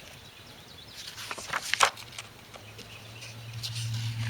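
Paper rustling and crackling as a manual and loose papers are handled, loudest about a second and a half in. A low steady hum comes in past the middle and grows louder toward the end.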